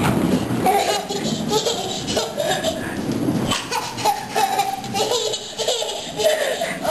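A baby laughing in short, repeated bursts.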